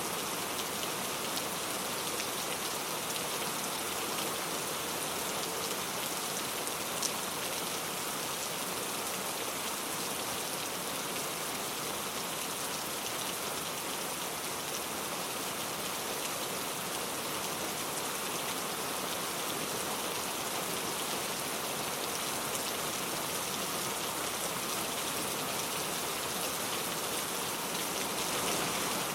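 Steady rain falling, an even hiss of many drops, with one sharp tick about seven seconds in.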